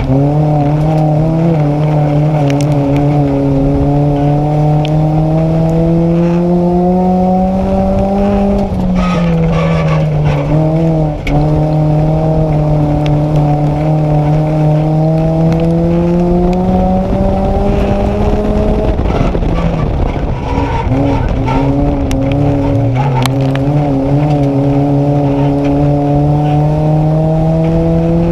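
Nissan Micra race car's engine heard from on board under racing load. Its pitch climbs steadily for several seconds at a time and then drops back, about three times: around 9 s, around 19–22 s, and again near the end.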